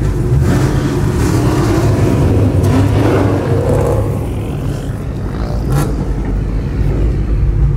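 Supercharged V8 of a 2014 Shelby GT500 rumbling at low speed, heard from inside the cabin. The revs rise about three seconds in and then ease off, and a single sharp knock sounds near the end.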